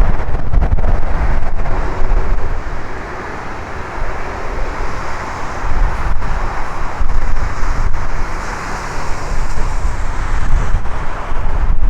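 Strong gusting wind buffeting the microphone, a loud uneven rumble that eases for a moment a few seconds in and then picks up again.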